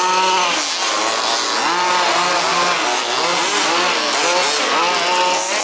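Several 1/5-scale RC buggies' small two-stroke petrol engines racing at once, each revving up and dropping back again and again as the cars accelerate and brake, their pitches overlapping in a rising-and-falling whine.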